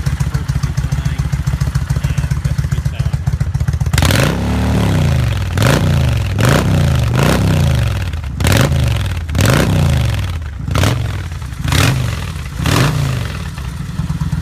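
2004 Kawasaki Vulcan 1500 Classic V-twin running through an aftermarket Vance and Hines exhaust: it idles steadily, then about four seconds in the throttle is blipped about nine times in quick succession, each rev rising and falling back, before it settles to idle again near the end.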